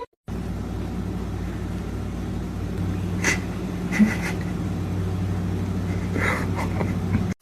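Steady low hum of a vehicle, as heard from inside the car, with a few short high squeaks about three, four and six seconds in.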